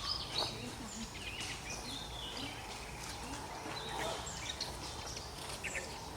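Forest ambience: many short bird chirps and trills from several birds, scattered over a steady low background hiss.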